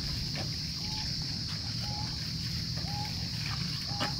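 A bird calling a short, slightly upturned note about once a second, over a steady high-pitched insect drone and a low rumble.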